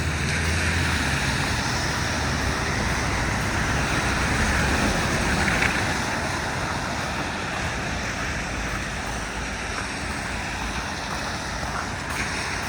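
Wet-street traffic noise in the rain: a steady hiss of car tyres on wet pavement that swells as a vehicle passes and then eases off.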